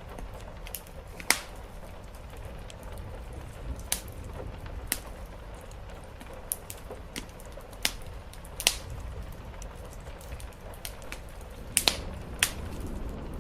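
Wood fire crackling in a fireplace: irregular sharp pops and snaps, a few much louder ones, over a steady low rumble with a soft hiss of rain.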